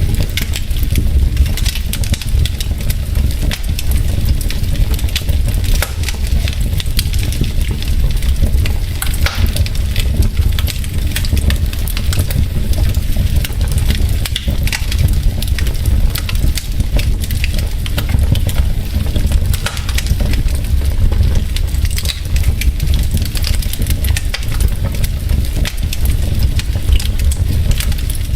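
Wood fire burning in a fireplace, logs crackling with many small irregular pops over a steady low rumble.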